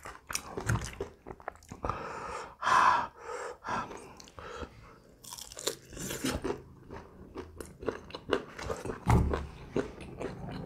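Close-miked chewing and biting of pan-fried chicken tails (pope's noses), with crunching and a run of sharp wet mouth clicks, and one louder mouth sound about three seconds in.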